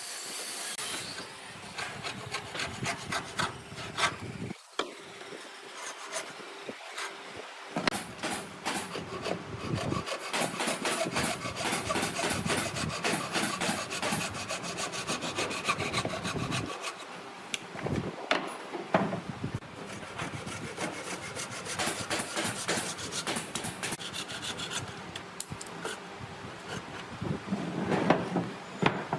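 Hand work on wood: a long run of quick, repeated rasping, scraping strokes against timber.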